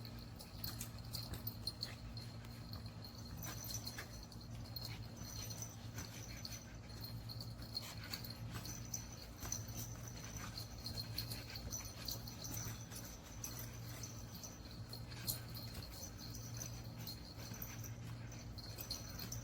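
Faint dog sounds over a steady low hum, with scattered light clicks.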